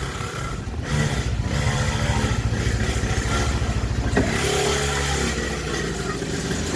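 Small 49cc dirt bike engine running, getting louder about a second in and then holding steady.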